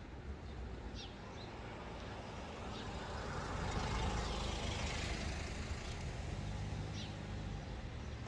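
A vehicle going past: a rumble that swells to its loudest about four seconds in and then fades, over a steady low road rumble.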